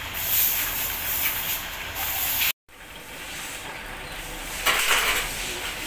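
Chicken thighs deep-frying in a wok of hot oil, a steady sizzle that cuts off abruptly about two and a half seconds in. After that, a pan of water at a rolling boil, a softer bubbling hiss with a brief louder rush about five seconds in.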